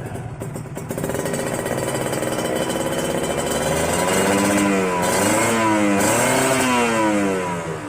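Kawasaki Ninja 150RR's single-cylinder two-stroke engine being revved, the pitch climbing and dropping several times in the second half, then falling back near the end.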